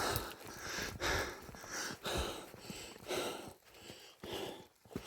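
A person breathing hard, with about one loud breath a second.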